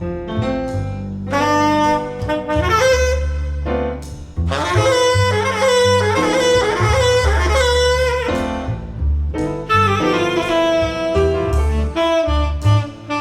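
Recorded jazz ballad played back through ATC SCM 11 bookshelf loudspeakers: a tenor saxophone melody over low bass notes. The saxophone swells to its loudest and fullest between about four and eight and a half seconds in.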